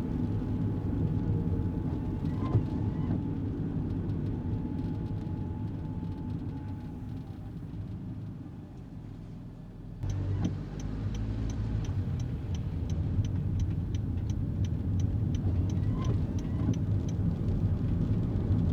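Kei car's engine and road noise heard from inside the cabin, easing off and dropping lower until about ten seconds in, then rising suddenly again as the car pulls away. A fast, regular faint ticking, about three a second, runs through most of the second half.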